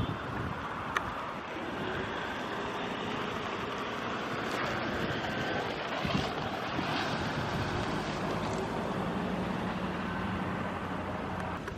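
Steady outdoor noise of wind on the microphone with a distant engine hum under it, and a few faint held tones.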